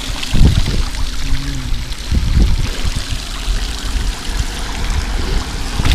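Bicycle tyres swishing through shallow floodwater on a road, water splashing and running, with irregular low thumps.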